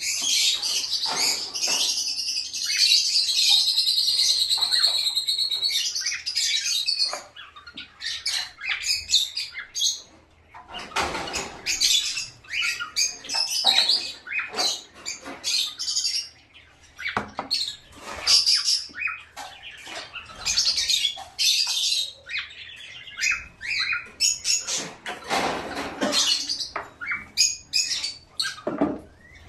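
Caged pet birds chirping and squawking. A dense run of high chirps fills the first several seconds, then it breaks up into scattered short calls mixed with a few fluttering, rustling strokes.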